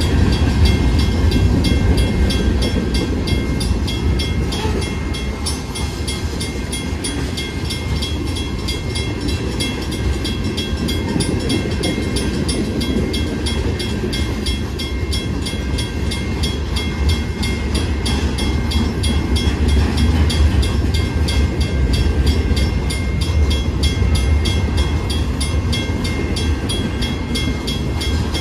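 Freight train rolling through a road grade crossing: a steady low rumble from the locomotive and cars. Over it, a crossing bell rings in a fast, even beat.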